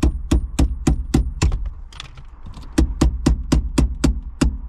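Rapid, evenly spaced taps, about four a second, with a short break in the middle, from a tool working the ignition lock barrel out of a Vauxhall Corsa B steering column.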